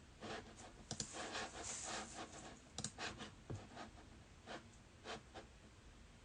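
Faint irregular clicks and crinkling as trading-card packs and a hobby box are handled and opened, with a brief plastic-wrapper rustle a couple of seconds in.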